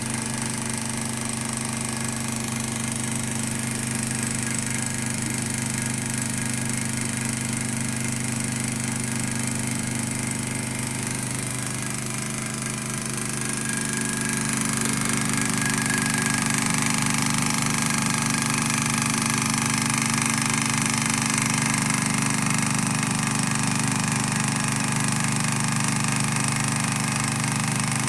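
Small candle-heated beta Stirling engine running fast and steady at about 1550 rpm, a continuous even mechanical hum.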